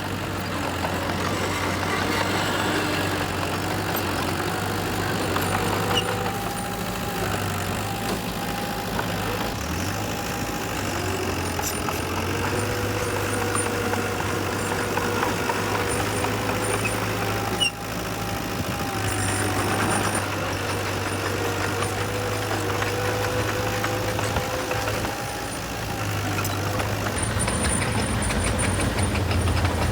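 Heavy diesel engines of dump trucks and a bulldozer working, a steady low engine hum with the engine note rising and falling under load.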